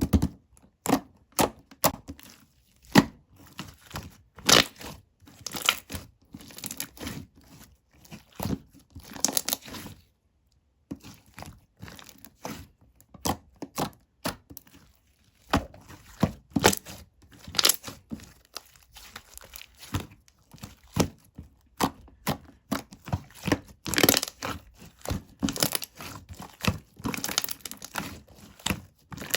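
Close-up tearing and crinkling of a thin, crinkly material, handled in irregular bunches of sharp crackles with short pauses, one about ten seconds in.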